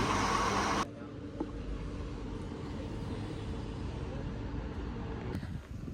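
Supermarket background noise with a steady hum cuts off abruptly about a second in, giving way to a quieter, steady low rumble of outdoor street ambience.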